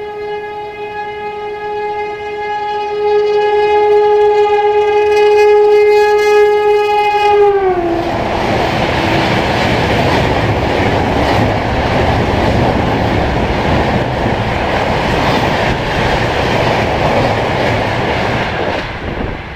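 Bhopal Shatabdi Express passing at high speed, around 158 km/h: a long, held locomotive horn whose pitch drops sharply as the engine goes by about seven seconds in. After that comes the loud, steady rush and rattle of the coaches, which stops abruptly near the end.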